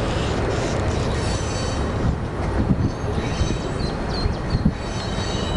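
Train rolling past out of sight: a steady rumble of wheels on rail, with thin high wheel squeals and a few knocks.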